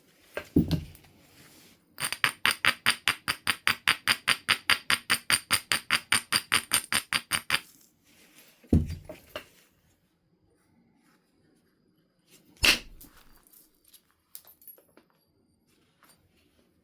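Flintknapping on a stone biface. A low thud comes first, then about five and a half seconds of quick, even rubbing strokes, about five a second, like an abrader ground along the edge to prepare a platform. After that come another low thud and, a few seconds later, one sharp crack of a billet strike on the stone.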